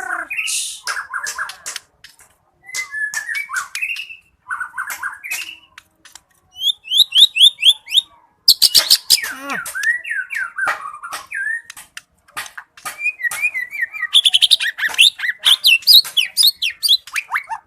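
White-rumped shama (murai batu) singing in full song: a long, varied series of sharp clicks, quick runs of repeated notes and short whistled phrases, with brief pauses between them.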